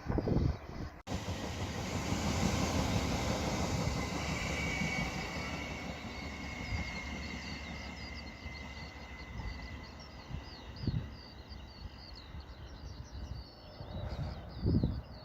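Train passing along the main line: a rush of wheels and air, loudest in the first few seconds and then fading away as it goes by, with a high steady whine through the middle.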